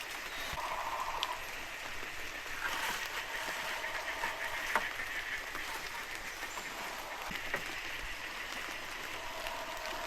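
Steady rain falling in the forest, with single drops ticking sharply close by. A humming call comes and goes at the start and near the end, and a higher one about three seconds in.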